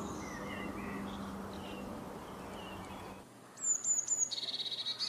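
Woodpecker calls: faint scattered chirps over a low hum at first. After an abrupt change of recording, a sharp high call and then a fast run of repeated notes.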